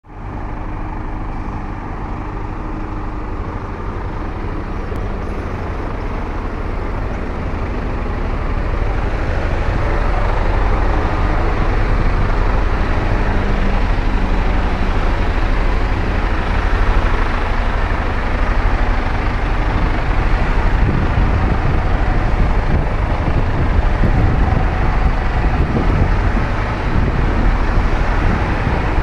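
Truck engine running with a low rumble, growing louder over the first ten seconds or so and then holding steady.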